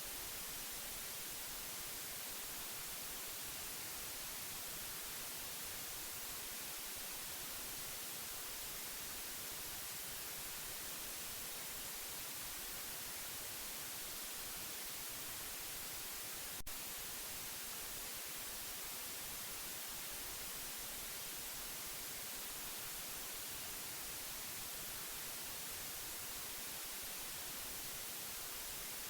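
Steady white noise: an even, unbroken hiss, brightest in the treble. A single brief click occurs about two-thirds of the way through.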